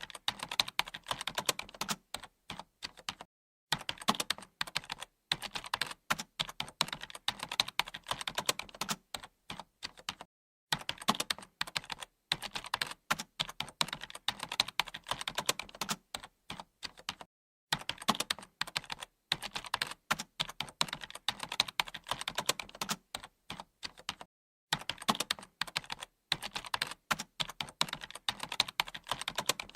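Fast typing on a computer keyboard: a dense clatter of keystrokes, broken by short pauses about every seven seconds.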